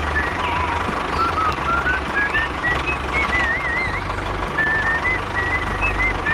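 A low, steady engine-like rumble runs under scattered short, high chirping whistles.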